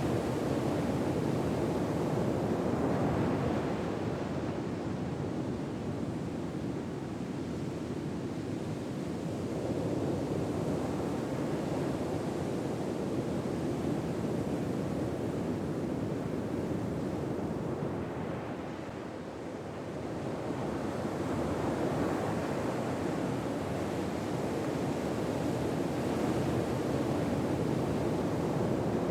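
Gentle ocean waves washing ashore: a steady rush of surf that slowly swells and eases, with a brief lull about two-thirds of the way through.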